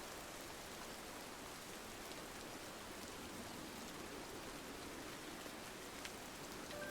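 Steady rain falling on a window, an even hiss with an occasional faint tick.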